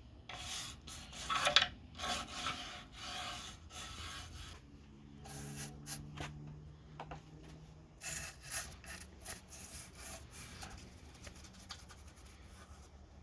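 An old toothbrush scrubbing liquid wood finish onto rough pallet-wood cut edges, in irregular bursts of bristle strokes with a pause midway.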